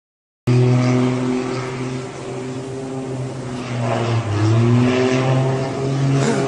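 An engine drone that starts abruptly about half a second in, holding a steady pitch and then dipping and rising a few times as the engine speed changes.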